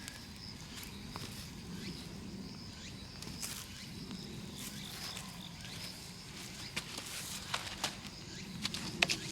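Large wood bonfire burning, crackling with scattered sharp pops that come thicker near the end, over a steady low rushing noise. A steady high-pitched trill runs underneath.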